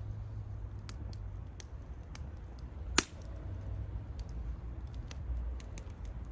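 Wood bonfire crackling, with scattered small snaps and one loud pop about three seconds in, over a steady low rumble.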